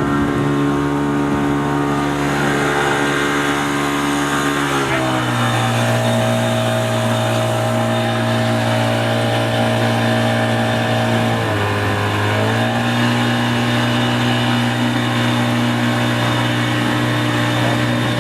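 Tour boat's engine running under way at a steady speed. Its note drops about five seconds in as the throttle eases, then dips briefly near the twelve-second mark before settling again.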